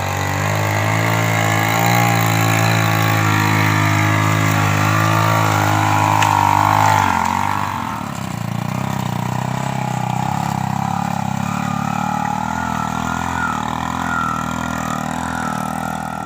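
Single-cylinder four-stroke Honda Revo Absolute motorcycle engine running steadily in a homemade vehicle; about seven seconds in its note changes abruptly, dropping to a lower, rougher sound that continues.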